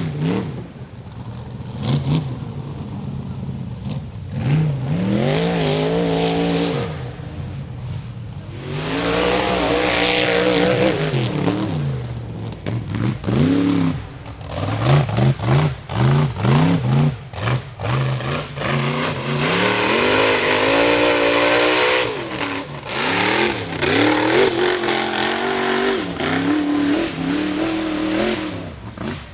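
A high-horsepower rock bouncer buggy's engine revving hard again and again, its pitch rising and falling in short bursts of throttle as it climbs, with stretches of tyre and spray noise between.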